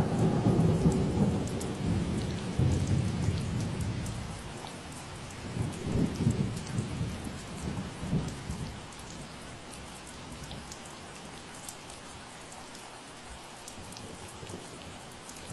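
Steady rain falling, with a low roll of thunder that breaks in suddenly at the start and fades over about four seconds, swells again about six to eight seconds in, then dies away, leaving only the rain.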